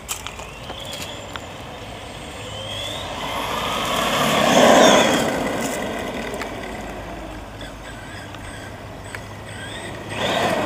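Redcat Volcano electric RC monster truck driving past: its motor whine rises in pitch and loudness, peaks about five seconds in, then fades as it moves off, and picks up again near the end.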